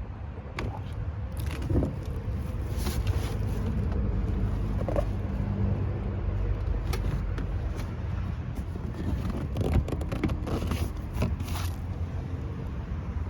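A steady low mechanical rumble with scattered clicks and rattles over it.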